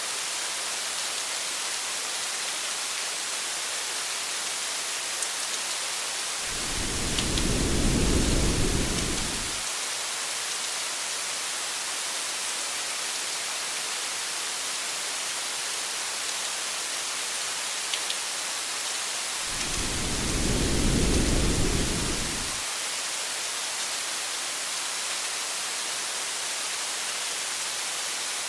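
Steady rain hiss with two low rolls of thunder, each swelling and fading over about three seconds, roughly thirteen seconds apart.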